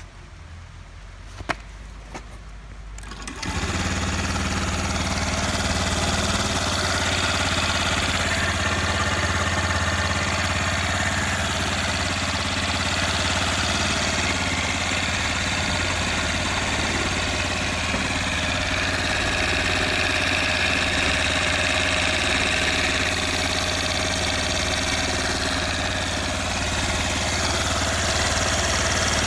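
A few small clicks, then about three and a half seconds in the Honda Benly Pro 50's single-cylinder four-stroke eSP engine catches and settles into a steady idle, which the seller calls free of abnormal noise.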